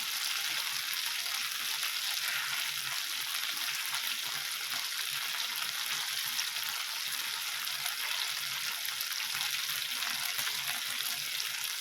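Teriyaki chicken kebabs sizzling steadily on an indoor grill, with a constant crackle of fat and marinade cooking.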